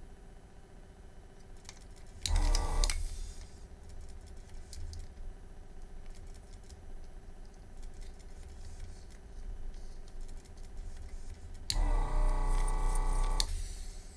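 Vacuum pump of a Yihua 948 desoldering station switched on twice to suck molten solder from a circuit board joint: briefly about two seconds in, then again for about two seconds near the end. Each run starts with a sharp click and is a loud motor hum with a low rumble.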